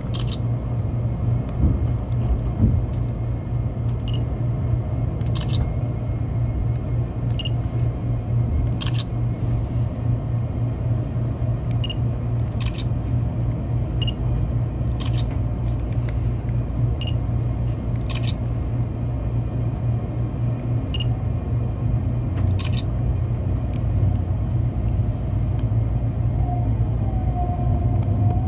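Steady low rumble inside a moving Shinkansen car, with sharp clicks every one to three seconds and a faint whine near the end.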